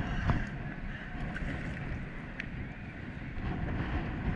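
Strong wind buffeting the microphone, a dense low rumble that surges unevenly, with a few light clicks on top.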